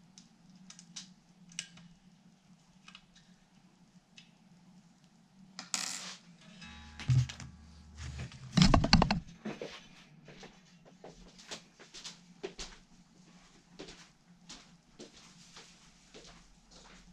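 Handling noise of an electric guitar and its gear being readied to play: scattered clicks and light metallic knocks, a louder scrape about six seconds in, a brief low hum around seven seconds, and the loudest clatter near nine seconds.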